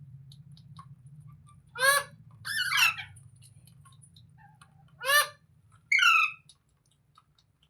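Rose-ringed (Indian ringneck) parakeet squawking: four harsh calls in two pairs, the second of each pair longer and falling in pitch, over a faint low hum.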